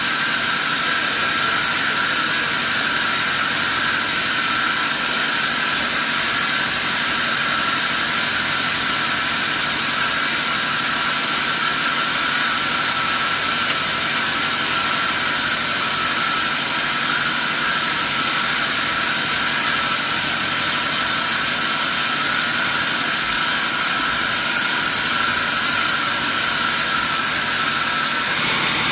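Sawmill machinery running steadily, an unbroken high-pitched hiss.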